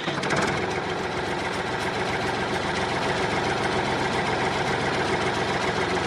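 Small motor of a homemade miniature flour mill running steadily with a fast, even mechanical rattle.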